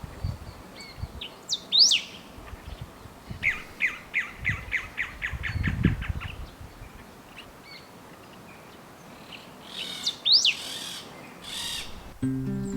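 Wild birds calling in forest: a sharp rising whistle heard twice, and in between a fast run of about a dozen short descending notes, with a few low thumps underneath.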